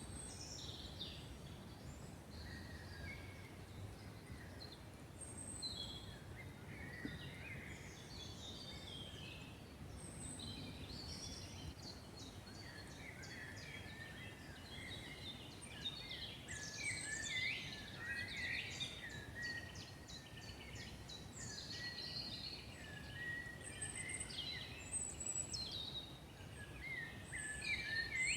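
Several songbirds singing and calling over a steady low background hum of the forest. The calls overlap with fast trills and grow busier about ten seconds in.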